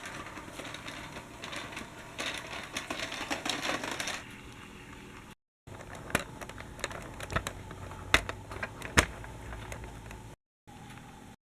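Small hard objects being handled, clicking and rattling densely for about four seconds. After an abrupt cut come scattered sharp clicks and a few louder knocks.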